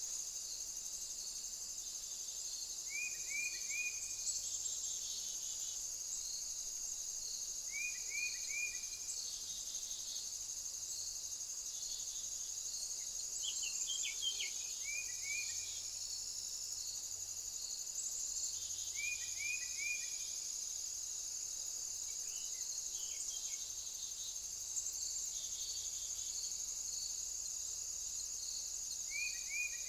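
A steady, high insect chorus outdoors. Over it, a small bird gives short calls of about three quick falling notes, repeated five or six times, every four to five seconds.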